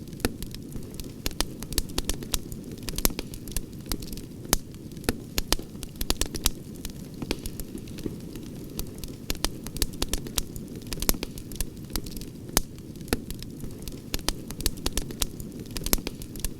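Wood campfire crackling, with frequent irregular sharp pops and snaps over a steady low rush of burning.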